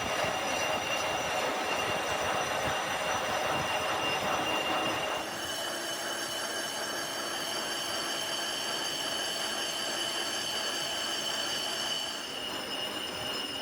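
Machine tool working metal, with a steady high-pitched metallic whine over a rushing noise. About five seconds in the rushing noise drops away, the whine grows stronger and higher tones join it.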